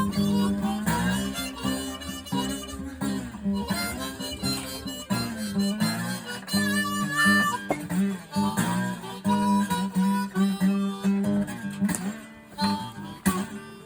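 Blues played on harmonica and acoustic guitar: the harmonica holds and bends notes over plucked guitar.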